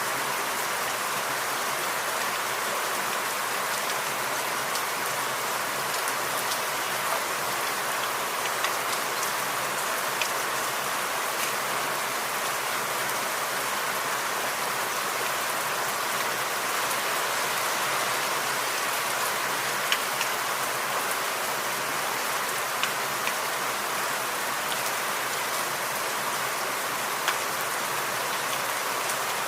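Steady rain falling in a forest, an even hiss with scattered louder drips.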